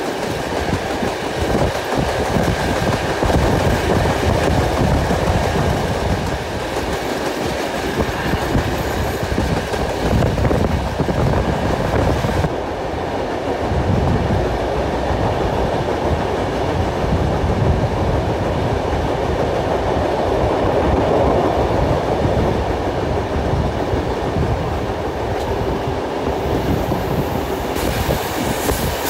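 Passenger train carriages running at speed: a steady rumble of wheels on the rails with clickety-clack over the rail joints. The higher hiss drops away about twelve seconds in and returns near the end.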